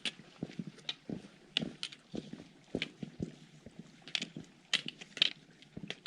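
Footsteps of hiking boots on rough, stony ground: irregular steps with sharp knocks and scrapes, about one or two a second.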